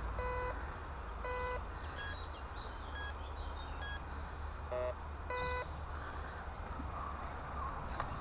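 Metal detector sounding through its built-in speaker as it is swept over a buried target: short mid-pitched beeps, two in the first second and a half and another just after five seconds, with fainter higher pips and a lower double tone between them. The tone is the response the detector gives to what reads as a pull tab.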